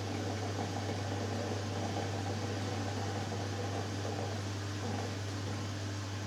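Hoover Dynamic Next front-loading washing machine in its final spin, motor and drum running with a steady low hum and a whooshing noise.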